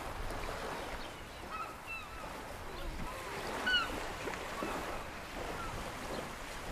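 Several short, arched bird calls scattered over a steady noisy background.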